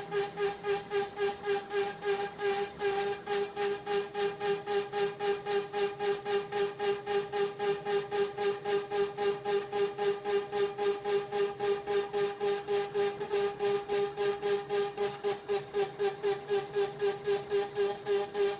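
CNC router spindle turning a 6 mm compression end mill at about 13,500 rpm while it cuts birch wood: a steady high whine with the cutting noise pulsing about four times a second.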